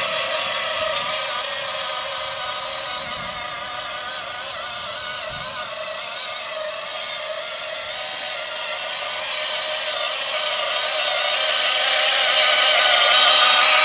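Radio-controlled 1/16 scale New Holland tractor running, its motor and geared axles whining steadily; the whine fades a little around the middle and grows louder toward the end.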